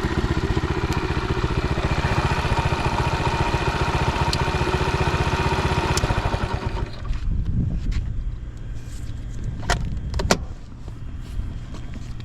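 Honda Dax 70's small single-cylinder four-stroke engine running with a fast, even beat, which the seller describes as free of abnormal noise. About seven seconds in the engine sound drops away to a quieter, lower note, followed by a couple of sharp clicks.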